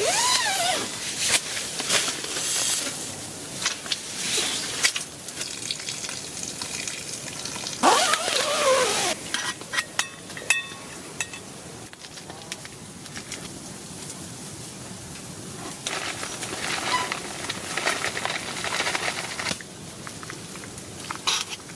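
Cooking sizzling and hissing on a wood stove, with irregular pops and clicks and two short falling whistles, about a second in and again about eight seconds in.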